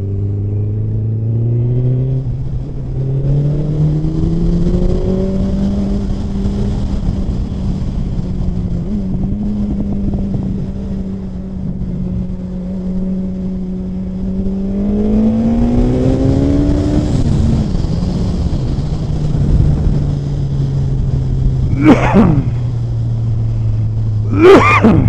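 Suzuki Hayabusa's inline-four engine under way at highway speed. It rises in pitch as it accelerates over the first few seconds, holds steady, climbs again about fifteen seconds in, then drops sharply as the revs fall. Two short bursts of voice come near the end.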